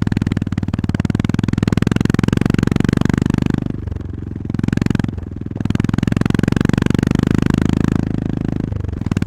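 Honda GB350S's air-cooled single-cylinder engine running under way, a fast even train of exhaust beats. It eases off twice around the middle and briefly near the end as the throttle is closed, then picks up again.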